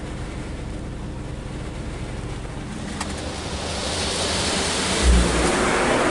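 Ryko SoftGloss MAXX rollover car wash at work on the car, a steady rushing of water or air that builds up to louder about halfway through, with a dull low thud near the end.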